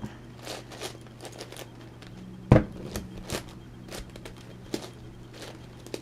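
Plastic 11x11x11 Rubik's cube being turned, its layers clicking and rasping in short strokes, with one much louder knock about two and a half seconds in.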